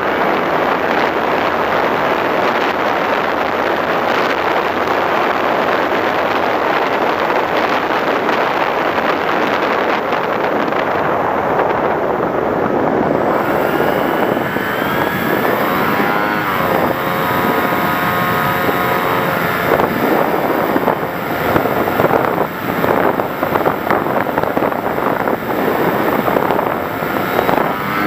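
Air rushing over a model FPV plane in flight. From about halfway, the whine of its motor and propeller comes through, with the pitch shifting up and down as the throttle changes.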